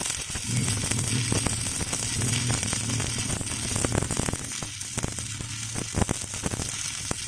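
Electric stick-welding arc burning on steel rebar: a steady crackling sizzle over a low hum, with a few louder sharp cracks.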